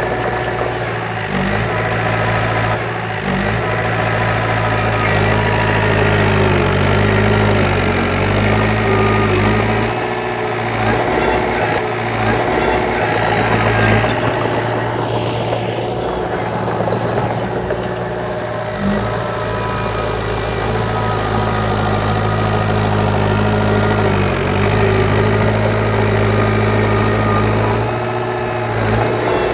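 Diesel engine of heavy earthmoving equipment running steadily at low revs, dipping briefly in pitch a few times.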